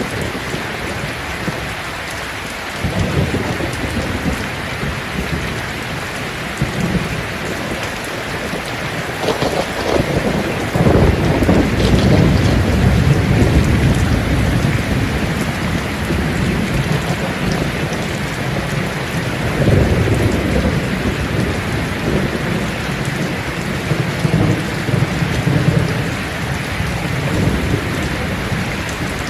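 Steady heavy rain falling on leaves, with low rolling rumbles of distant thunder that swell about three seconds in, build strongest around the middle, and come back twice later.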